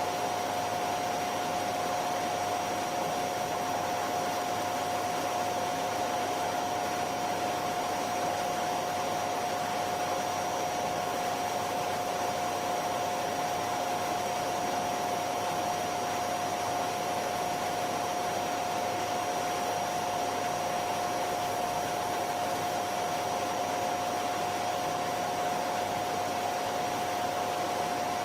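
Vacuum cleaner running steadily: an even rush of air with a constant mid-pitched whine and a fainter high whine over it.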